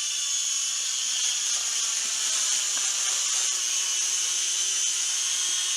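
Huajun Toys Flanker W606-5 toy quadcopter in flight, its small motors and propellers giving a steady high-pitched whine that drifts slightly in pitch with throttle after leaving altitude hold.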